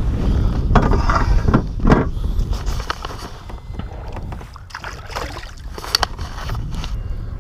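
Wind rumbling on the microphone aboard a fishing kayak, with a cluster of short knocks and clatters in the first two seconds and a sharp click about six seconds in.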